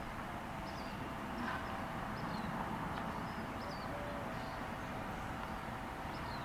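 Outdoor ambience: a steady low background rumble with faint, short, high bird chirps scattered through it every second or so.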